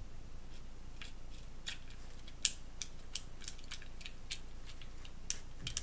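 Buttons on a plastic fidget toy being pressed, a string of sharp, irregular clicks, the loudest about two and a half seconds in.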